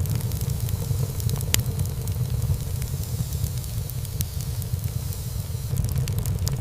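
Wood fire burning in a fireplace: a steady low rumble of flames with scattered crackles and pops of burning wood. There is one sharp pop about a second and a half in; the crackles thin out through the middle and pick up again near the end.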